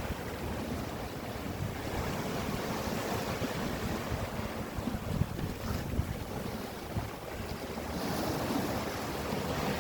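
Sea surf washing in, with wind buffeting the microphone in uneven low gusts.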